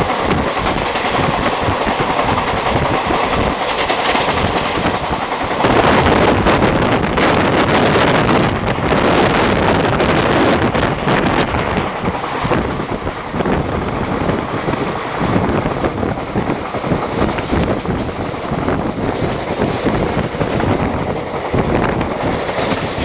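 Running noise heard from on board a moving Indian Railways express passenger train: wheels clattering over the rail joints, with wind rushing past. It grows louder for several seconds from about six seconds in.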